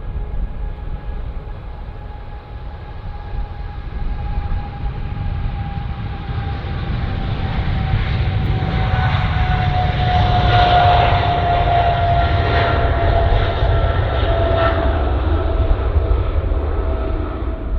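Jet airliner passing close by, its engines running with a deep rumble and a whine that falls slowly in pitch. The sound swells to its loudest about ten to fifteen seconds in.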